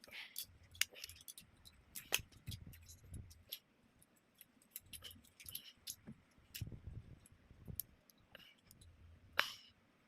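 Plastic toy building bricks clicking and clattering as pieces are handled and pressed together: irregular sharp clicks with soft bumps between them, the loudest click near the end.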